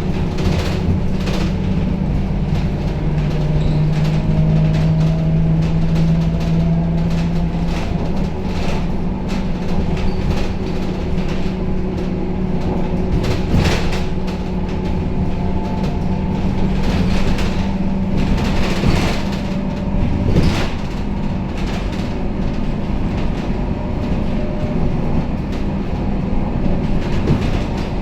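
Scania K270UB city bus heard from inside while under way: the diesel engine runs with a steady low drone, with a faint rising whine a few seconds in. Body panels and fittings rattle and knock over the road throughout.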